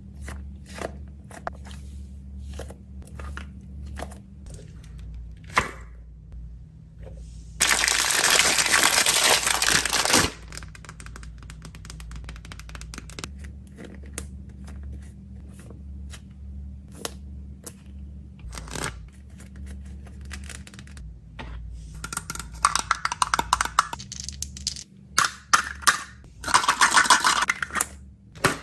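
Small items and packaging being handled while packing: scattered clicks and taps, a loud crinkling rustle lasting about two seconds that starts about eight seconds in, and bursts of crackling and rustling near the end.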